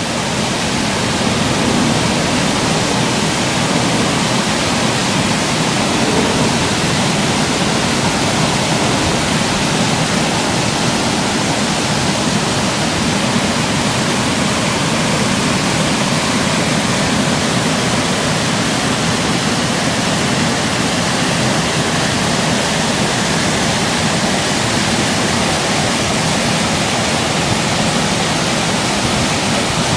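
Hooker Falls, a river waterfall, pouring steadily into its pool, heard close up as a loud, even rush of falling water.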